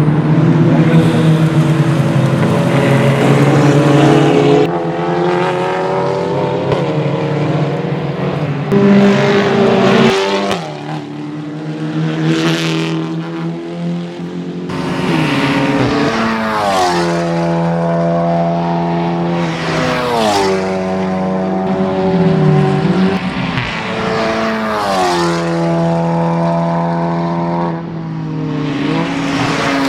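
Touring race cars at racing speed, several engines at high revs passing one after another. Their pitch climbs and then drops in steps as they change gear, with a car going by every few seconds.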